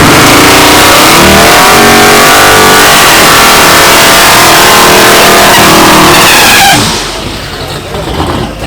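Drag-racing car engine at full throttle, very loud and distorted. Its pitch climbs several times as it shifts up through the gears, then the sound falls away sharply near the end.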